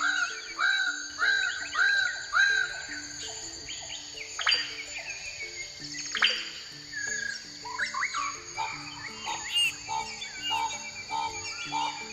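Several birds singing and calling over a steady high insect drone, starting with a run of repeated arched whistled notes and with two sharp downward-sweeping calls around the middle. Low held notes of background music step in pitch underneath.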